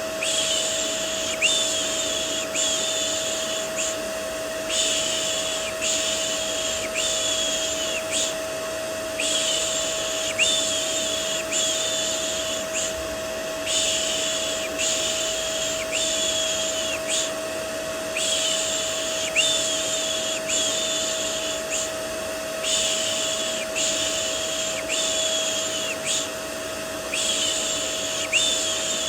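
Looped baby-soothing shushing: rhythmic "shh, shh, shh" strokes in repeating groups of about five, with a short pause every four to five seconds. Under it runs the steady hum and whine of a vacuum cleaner used as white noise.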